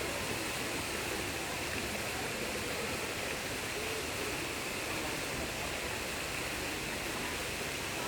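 A steady, even rushing noise with no distinct events, like running water.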